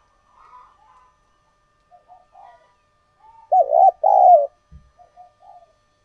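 Spotted dove cooing: a few soft coos, then two loud coo notes that dip in pitch about halfway through, followed by more soft coos.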